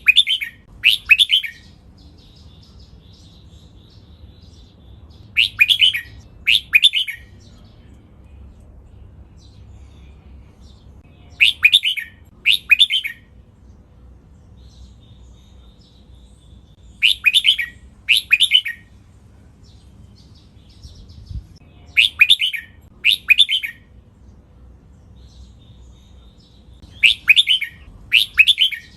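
Red-whiskered bulbul singing a doubled phrase: a short, clear song phrase given twice in quick succession, the pair repeating about every five to six seconds. Faint chirps sound between the pairs.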